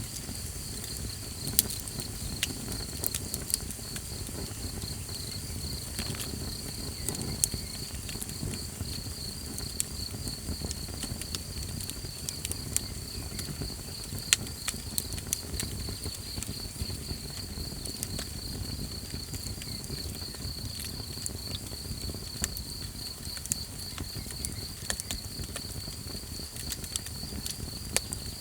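Small campfire crackling, with scattered sharp pops and snaps over a low rumble of burning, while an insect trills steadily and evenly in the background.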